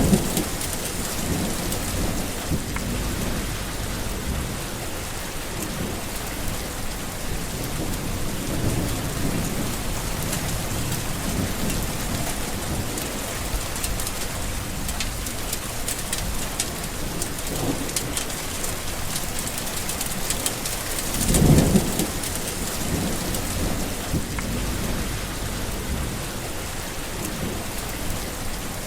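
Steady rain falling through a thunderstorm, with low thunder rumbling now and then. The loudest roll of thunder swells and fades about three-quarters of the way through.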